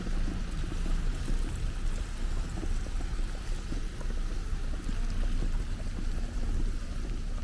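Wind buffeting the microphone in a snowstorm: a steady low rumble with a hiss over it.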